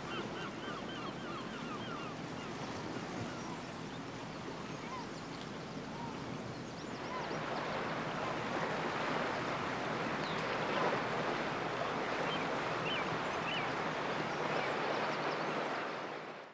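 Sea surf washing on the shore, a steady rushing that swells louder about seven seconds in, with birds calling over it: a quick series of short repeated calls at first, then scattered calls. It fades out at the end.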